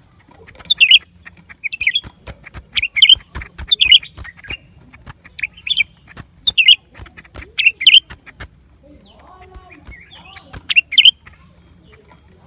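Blue-winged leafbird calling: short, sharp, high chirping phrases repeated about once a second, with scattered sharp clicks between them. A quieter, lower sound comes in briefly about three-quarters of the way through.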